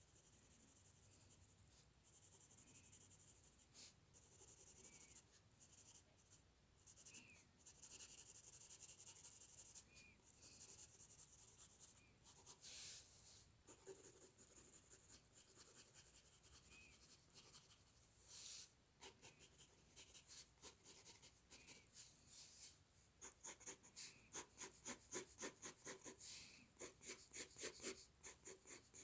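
Faint scratching of a drawing tool on paper: separate strokes at first, then a fast run of short repeated strokes, several a second, near the end.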